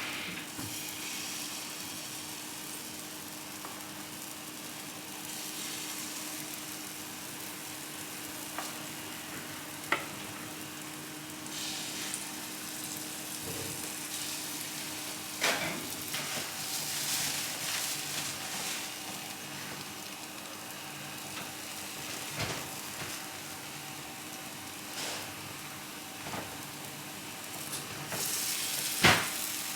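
Food frying in a pan: a steady sizzle, with a few sharp knocks scattered through it, the loudest near the end.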